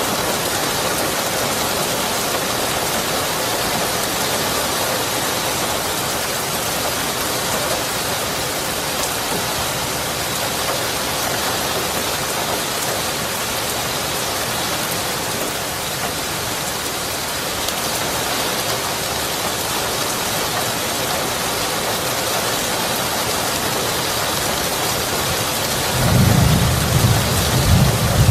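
Steady rain falling, a continuous even hiss. Near the end a low thunder rumble sets in and grows louder.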